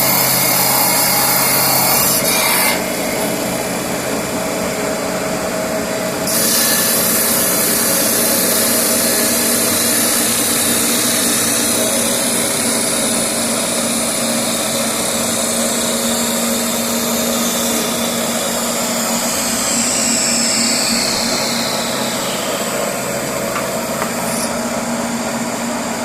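CNC machine cutting wood: a steady motor hum under a hissing cut that stops about two and a half seconds in and comes back at about six seconds. Past the middle, falling whines sound as the motors change speed.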